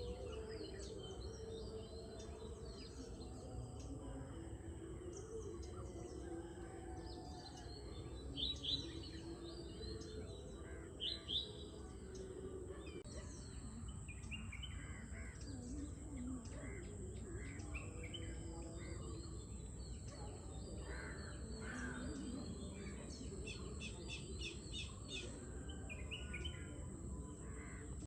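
A dawn chorus of many birds chirping and calling, a few at a time, with two louder, sharper calls about nine and eleven seconds in.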